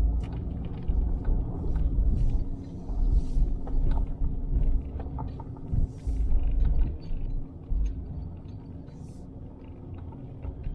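Car driving slowly, heard from inside the cabin: an uneven low engine and road rumble with a steady low hum and scattered light clicks.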